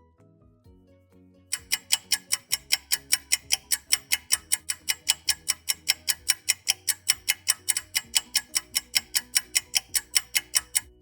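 Fast, even ticking, about four or five sharp ticks a second, like a clock-ticking sound effect, starting about a second and a half in and stopping near the end, over quiet background music.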